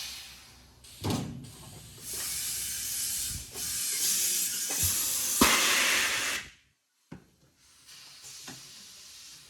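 Compressed air hissing in two long spells, broken by sharp metallic knocks and clicks. It cuts off suddenly about two-thirds of the way through; fainter knocks and hiss follow.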